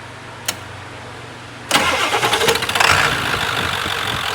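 Ford 7.3 Powerstroke V8 turbo-diesel cranking briefly and catching, then settling into an idle, on a start after a fuel filter change. Before it, a low steady hum and a single click about half a second in.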